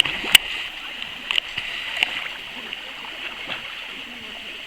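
River water flowing with a steady rushing, with a few sharp clicks or knocks in the first two seconds.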